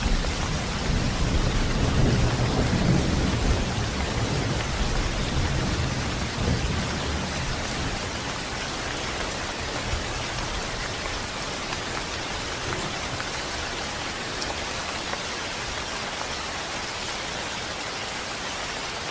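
Steady rain falling, with a low rolling rumble of thunder that dies away over the first several seconds, leaving only the even hiss of the rain.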